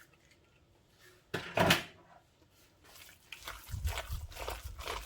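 Kitchen handling sounds: one sharp knock or clatter of dishes or utensils about a second and a half in, then a run of soft, irregular handling and rubbing noises from about three seconds on.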